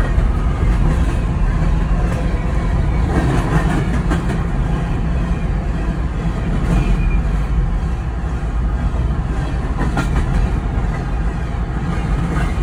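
CSX freight train of open-top hopper cars rolling past close by: a steady heavy rumble of wheels on rail, with sharp clicks as the wheels cross rail joints.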